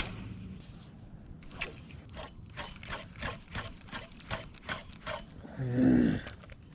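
Fishing reel being cranked, its mechanism giving an even clicking of about four clicks a second for a few seconds. Near the end a louder, rougher sound with a shifting pitch.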